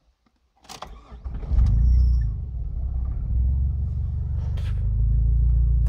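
Ford Probe engine started: a few clicks and a short crank, catching about a second and a half in, then idling with a steady low rumble. The engine is running on oil turned to emulsion by wood preservative.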